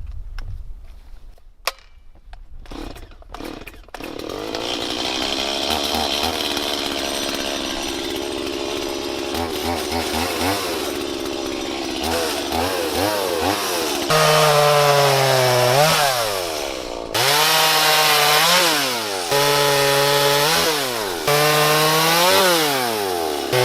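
A few knocks, then a two-stroke chainsaw running. From about a third of the way in it is cutting wood, the engine pitch sagging under load and rising again five times or so.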